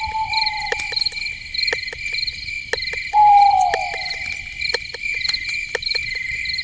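Night forest ambience: a steady, pulsing chorus of crickets and other insects, with scattered sharp clicks. A drawn-out animal call sounds twice, falling slightly in pitch: once at the start and again, louder, about three seconds in.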